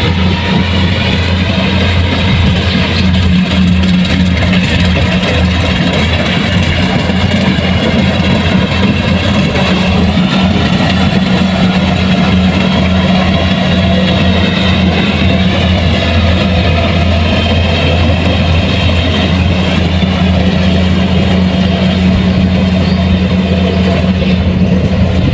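Kubota combine harvester's engine and machinery running at a steady, continuous drone, with a faint wavering whine on top.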